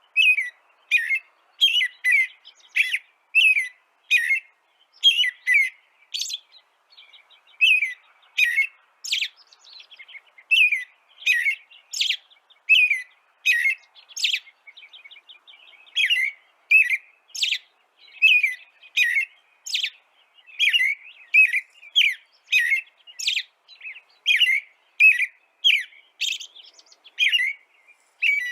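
A small songbird chirping over and over in short, sharp notes, about two a second, with brief pauses about 6 and 15 seconds in.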